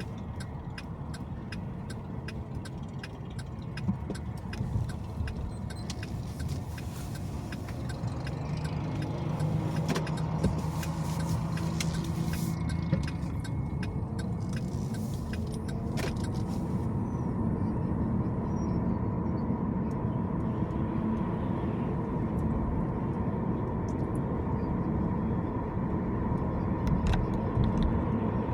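A car driving on city streets: steady engine and tyre rumble that grows louder about a third of the way in, with scattered light clicks and rattles.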